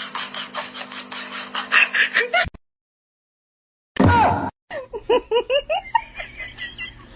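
Rapid clicking and rustling over a steady hum, which cuts off into silence. Then comes a short loud burst, followed by a person laughing in quick repeated bursts.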